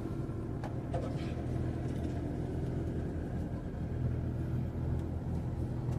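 Motor vehicle engine running at a steady idle-like hum, low and even, with a couple of faint clicks in the first second.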